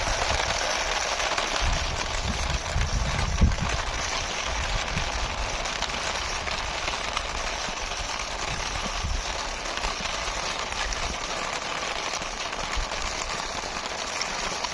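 Plastic toy pushed by hand across a rough surface: a steady rolling, scraping hiss, with a few soft knocks in the first few seconds.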